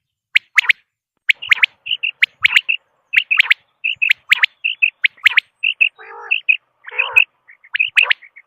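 Quail (batair) calling, used as a hunting call: a rapid series of short, high chirps, often in pairs and threes. Two rougher, lower calls come in about six and seven seconds in.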